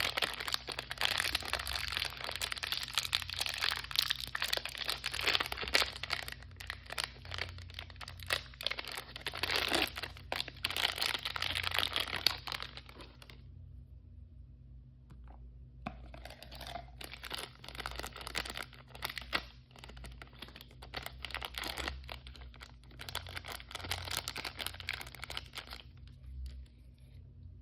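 Toy packaging wrapper being torn open and crinkled by hand. Dense crackling for about the first half, a short pause, then quieter crinkling.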